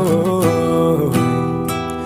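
Music: a strummed acoustic guitar, with a sung note held and wavering over the first half-second.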